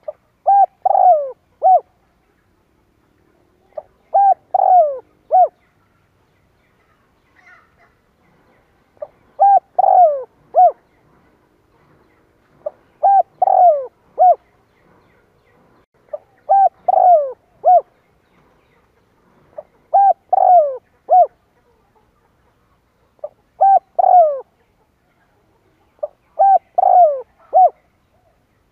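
Spotted dove cooing: eight repeated phrases, each a short opening note followed by two longer falling coos and a short final note, about one every three and a half seconds. It is the dove's cooing call used as a lure to provoke wild doves into answering.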